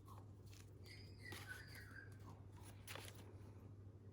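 Near silence: a steady low hum with a few faint ticks and rustles of paper craft items being handled.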